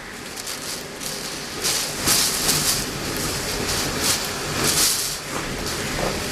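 Typhoon wind and driving rain: a rushing hiss that swells and eases in several gusts.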